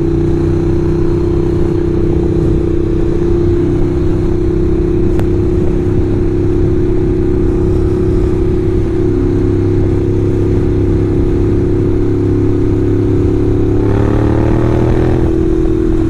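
Ducati L-twin motorcycle engine running steadily under way. Its pitch eases down slightly twice, then rises as it accelerates near the end.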